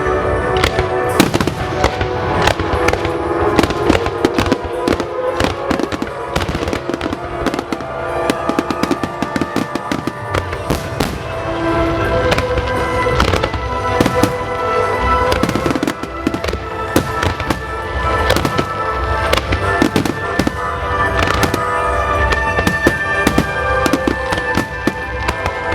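Fireworks display: a rapid, continuous run of shell bursts and crackling bangs over loud music with sustained tones.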